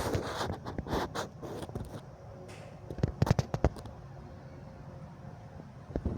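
Scattered clicks and knocks, with a quick cluster of several about three seconds in and another near the end.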